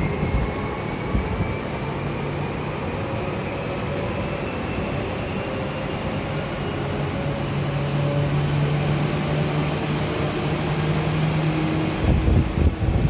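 Interior running noise of a Tokyu 8500-series electric train's motor car under way: a steady rumble with a faint whine that rises slowly in pitch as the train gathers speed, and a low hum through the middle. Heavier low rumbling and knocks come in near the end.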